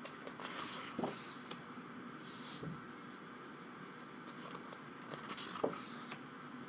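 Pages of a glossy photobook being turned by hand: one brief paper swish and a few light taps over a steady low room hiss.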